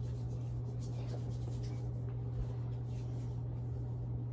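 A steady low hum throughout, with faint light scratching and rustling of small things being handled.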